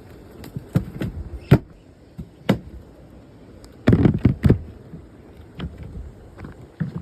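A series of sharp knocks and thumps over a steady low rumble, with several heavy ones bunched together about four seconds in.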